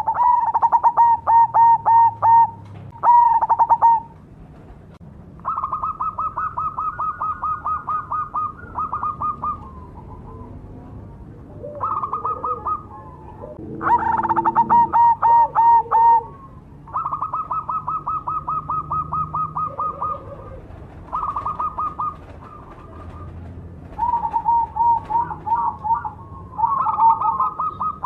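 Perkutut cemani, a black zebra dove, cooing in repeated bouts of quick, evenly spaced rolling notes with short pauses between phrases. The loudest phrases come right at the start and about halfway through.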